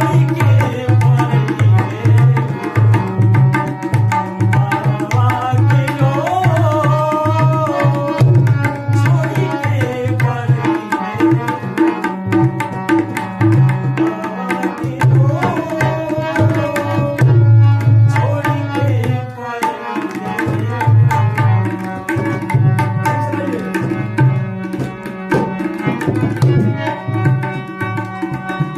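Instrumental passage of a Bhojpuri folk song: a tabla-type hand drum keeps a fast, steady rhythm under a melody line that slides up and down in pitch.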